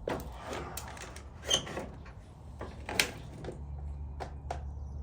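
A few sharp clicks and knocks, then from about three and a half seconds in a steady low hum: the Kohler KT745's starter being tried and whining without turning the engine over. This is the sign of a bad starter, which a new solenoid has not cured.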